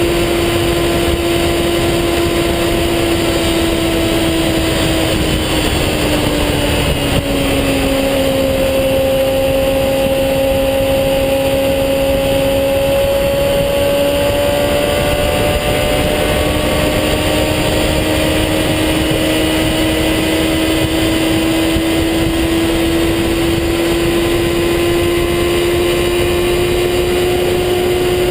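A motor vehicle's engine running under loud, steady wind rush on the microphone. Its pitch drops about six seconds in, stays low for several seconds, then slowly climbs back up.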